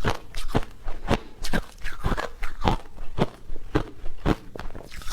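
Close-up crunchy chewing, a crisp crunch about twice a second.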